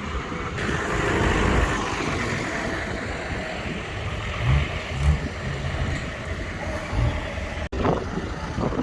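A motor vehicle engine running nearby as a steady rumble, louder about one to two seconds in.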